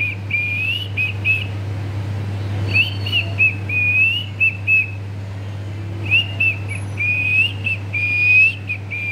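A pet parrot whistling the same short tune three times over, clear high notes with little upward slides, over a steady low hum.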